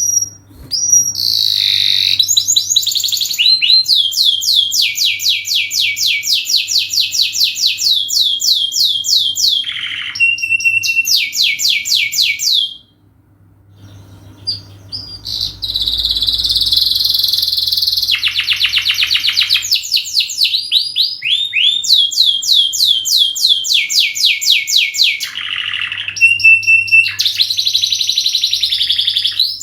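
Domestic canary singing a long song of rapid trills, with phrases of quickly repeated notes. There is a short break about halfway through.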